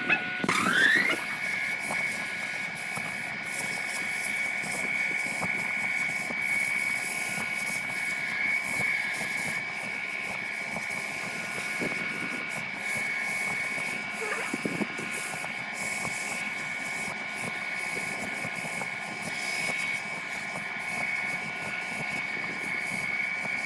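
Electric woodworking power tool running with a steady high-pitched whine, its motor dipping in pitch and spinning back up right at the start before holding an even speed.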